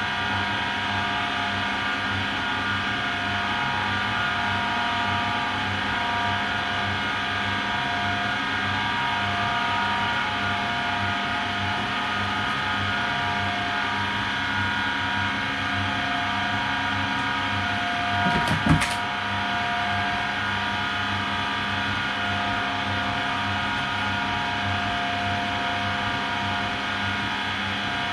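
AEG Lavamat Turbo washer-dryer running steadily mid-cycle: a motor whine made of several steady tones over a rhythmic low pulsing. A brief knock comes about eighteen seconds in.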